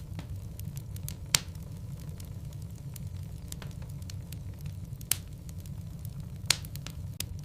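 Logs burning in a fireplace: scattered small crackles over a steady low rumble, with three louder sharp pops spread through.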